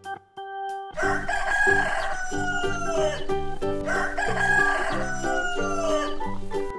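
A rooster crowing twice, each crow lasting about two seconds and falling in pitch at the end, over a steady backing tune.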